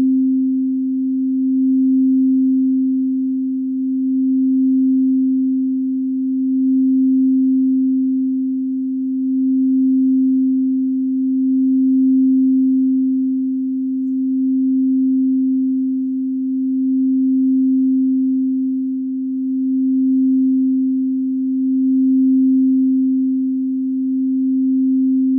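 A root chakra singing bowl sustaining one steady, pure hum, swelling and fading about every two and a half seconds.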